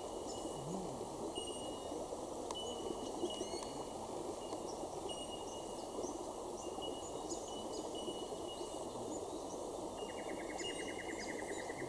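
Rainforest birds calling: many short, high whistled notes from several birds, over a steady background hiss. Near the end a rapid trill comes in for a second or so.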